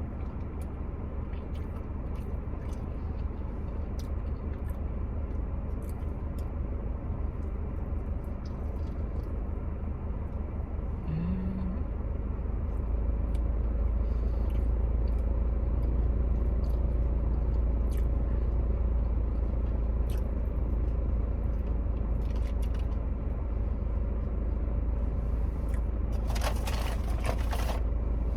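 A person eating: chewing and small sharp mouth and food clicks over a steady low rumble that gets louder about halfway through, with a short rustle near the end.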